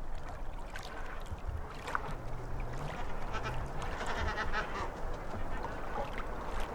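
Waterfowl calling, with a quick run of honking notes about three to five seconds in, over a steady wash of water noise.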